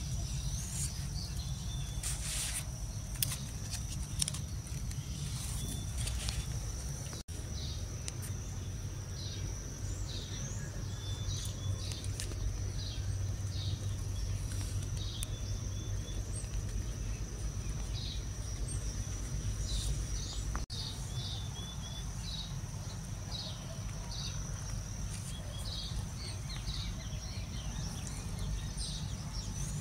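Small birds chirping in short, repeated calls, over a steady high-pitched tone and a low rumble.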